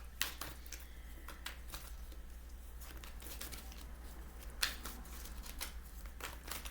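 Tarot cards being handled: scattered soft flicks and slaps of card stock, a few closer together near the end, over a faint low hum.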